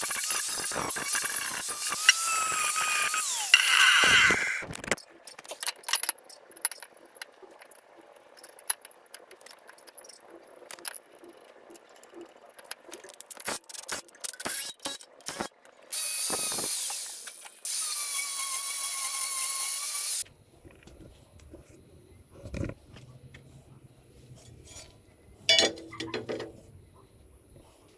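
A handheld electric power tool runs in bursts with a high whine and hiss: one long run at the start, then two runs of about two seconds each past the middle. Scattered clicks and knocks of tools and steel being handled come between the runs.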